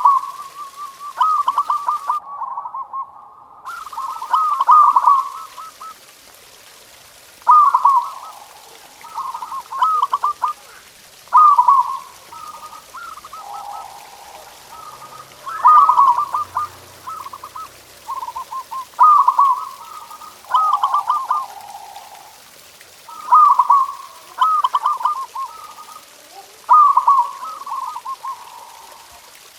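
Zebra dove (perkutut) cooing: short phrases of quick rolling notes at one pitch, repeated about every two seconds.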